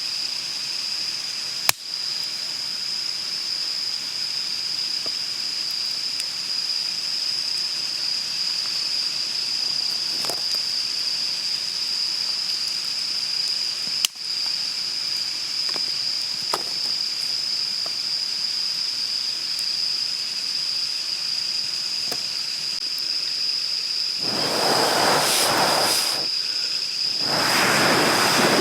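Steady, high-pitched insect drone, with a few sharp pops from the campfire. Near the end come two louder rushing swells of noise.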